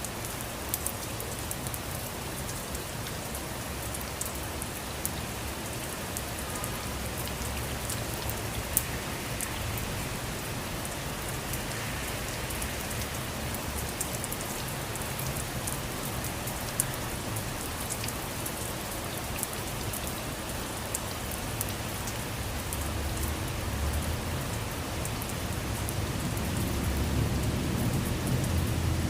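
Steady rain falling on a surface, with many separate drops clicking sharply over the even hiss. A low rumble builds in the last few seconds.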